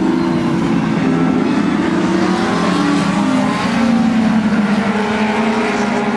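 Several dwarf race cars running at speed together, their engines at different overlapping pitches that rise and fall as they go through the laps.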